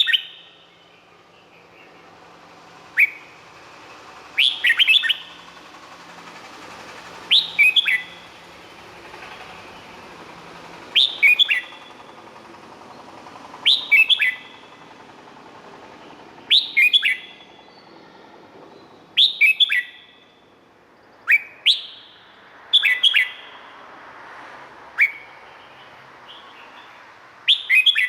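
Red-whiskered bulbul singing: short, bright phrases of a few quick whistled notes, repeated about every two to three seconds.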